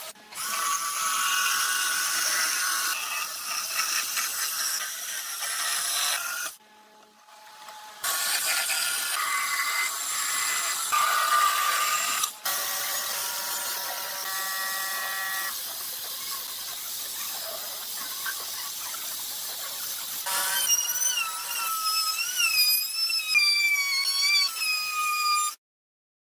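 Power tools working wood: a loud, high-pitched machining noise with whining tones. It stops abruptly twice, and near the end a wavering high squeal rides over it before everything cuts off suddenly.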